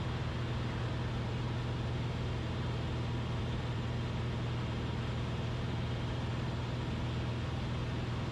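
Steady in-flight cabin drone of a Cessna 172RG, a constant low hum with airflow hiss, its engine throttled back for a simulated engine-failure glide toward landing.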